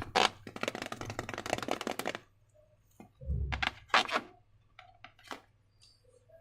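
Slime being handled with balloons: a dense run of sticky crackling and clicking for about two seconds, then a few scattered clicks and a soft thump.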